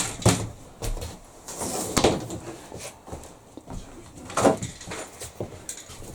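Irregular knocks and thumps of timber and tools being handled against the inside of a motorhome body while fitting plywood ceiling panels, the loudest right at the start and others about two and four and a half seconds in.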